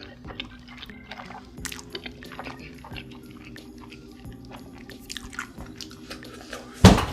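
Close-miked mukbang eating sounds: chewing with many small wet clicks, with faint steady music under them. A loud thump comes near the end.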